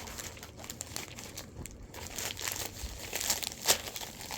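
Packaging crinkling and tearing as a stubborn package is pulled open by hand, in a run of irregular crackles that thickens in the second half, with one sharp loud crackle about three and a half seconds in.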